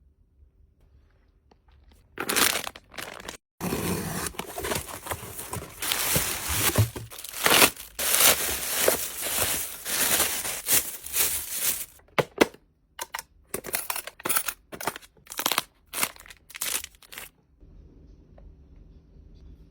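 Packaging crinkling and tearing as it is handled: a short burst about two seconds in, a long continuous stretch, then a run of short separate crinkles that stop shortly before the end.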